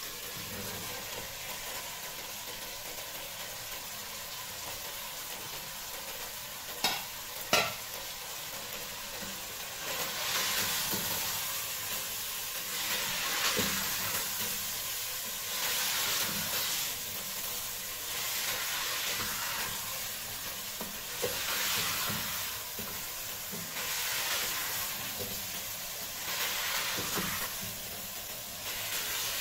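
Potatoes and cauliflower sizzling in masala in an aluminium pressure cooker, with two sharp knocks about seven seconds in. Then a wooden spoon stirs them in slow strokes, and the sizzle swells with each stroke every two or three seconds.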